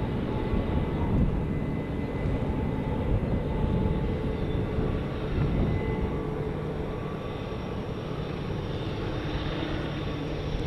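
A steady low mechanical rumble with a few faint, steady whining tones above it, as of a running vehicle.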